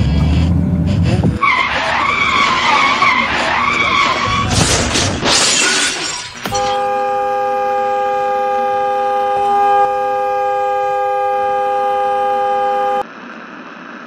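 Staged car-crash sound effects: a low rumble, then a long high wavering squeal, a smash with shattering glass, and then a car horn blaring on one steady chord, as if held down by the slumped driver, until it cuts off suddenly near the end.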